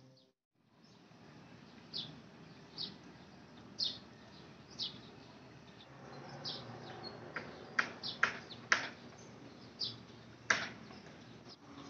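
Birds chirping in short, sharp calls, about one a second at first, then more often and louder from about six seconds in, over a faint steady outdoor background.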